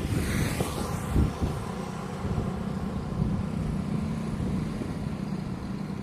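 Road vehicle passing close, a rush of tyre and air noise that fades over the first second and a half, then a steady low engine hum.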